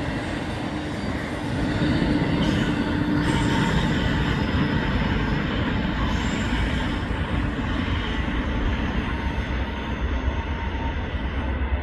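Freight train cars rolling past with faint steel-wheel squeal over the steady rolling noise. Near the end the high squeal and hiss fall away, leaving a low rumble.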